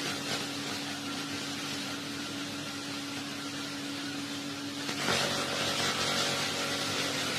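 Steady background hum and hiss with a faint held tone, like a fan or electrical hum in a small room; the hiss grows a little louder about five seconds in.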